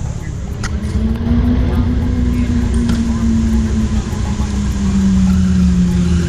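A vehicle passing on the road. Its engine note rises slightly, then falls away slowly over a few seconds, above a steady low rumble.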